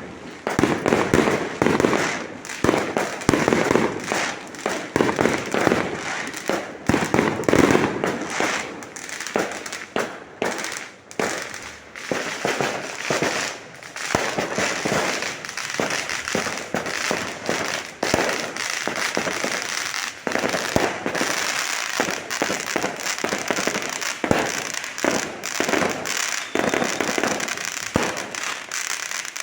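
Fireworks going off in a continuous barrage: rapid, overlapping bangs and crackling, with the heaviest bangs in the first half.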